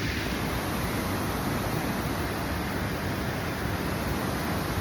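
Steady, even rushing noise that holds level throughout, with no breaks or distinct events.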